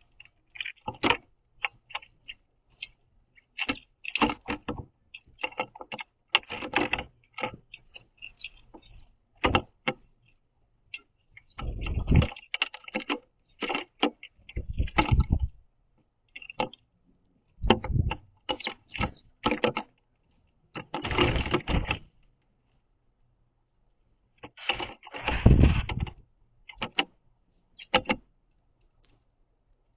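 House sparrows pecking and scrabbling at seed on a wooden platform feeder: irregular clicks and taps, with four or five heavier clusters of thuds and rustling as birds land, jostle and flap. A few faint high chirps come through between them.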